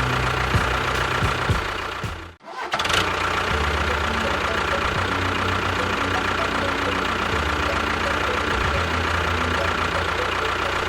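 Steady engine running sound, dropping out briefly about two and a half seconds in before carrying on.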